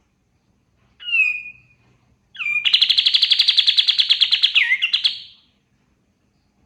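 Kapas tembak songbird singing: a short falling whistled note, then a loud, fast trill of rapidly repeated notes, about a dozen a second, lasting about three seconds.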